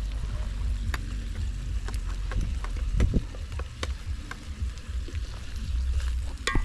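Food frying in oil in a pot over a wood fire, with scattered sharp pops and crackles over a low steady rumble.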